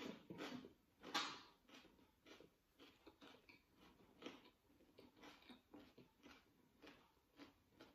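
Quiet, close-mouthed chewing of a lettuce-wrapped bite of fried pork, with soft wet smacks about twice a second.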